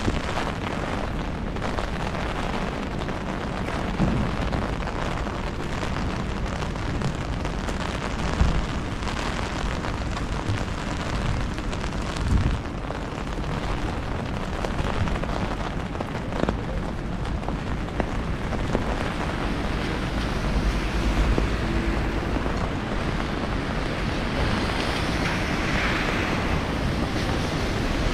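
Steady rain pattering on an umbrella held overhead, with a low rumble and a few heavier thumps. Traffic hiss from tyres on the wet road swells near the end.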